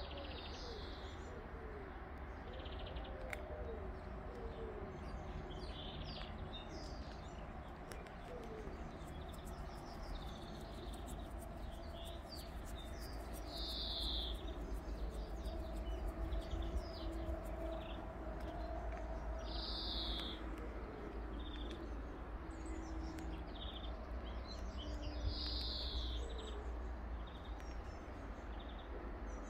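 Garden birds chirping and singing in short phrases scattered throughout, over a steady low rumble.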